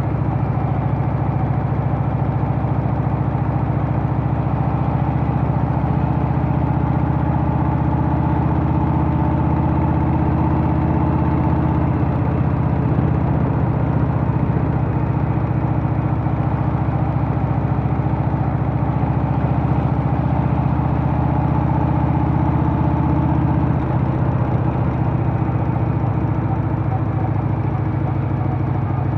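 Harley-Davidson Softail's Milwaukee-Eight V-twin engine running steadily under way, its pitch barely changing.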